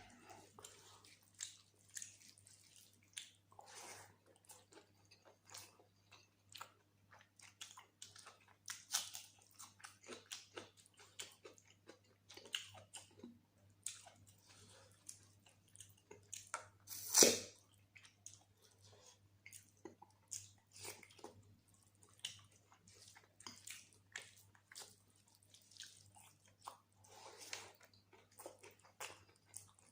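Close-miked eating of mutton curry with rice: wet chewing, biting and mouth smacks in many short, irregular clicks. One louder, sharper noise comes a little past halfway.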